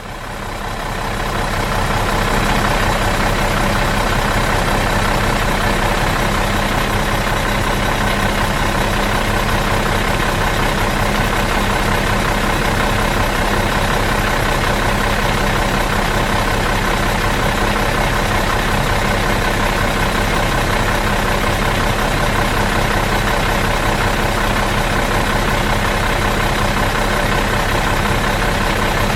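Bus engine idling in neutral, running steadily and evenly; it fades in over the first two seconds.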